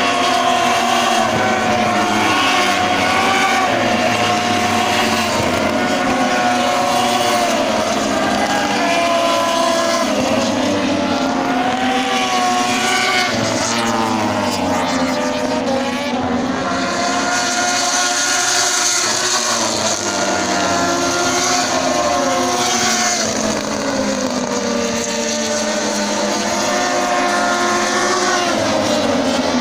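Several Moto2 racing motorcycles with Triumph 765 cc three-cylinder engines running hard past the stands, their pitch repeatedly rising through the gears and falling away, several bikes overlapping at once.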